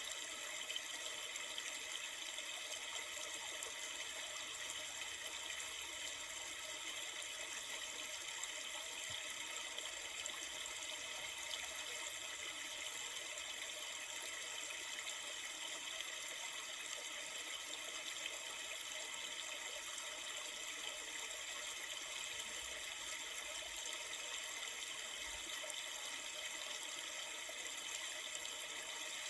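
River water flowing steadily, an even hiss-like wash of water noise with no breaks.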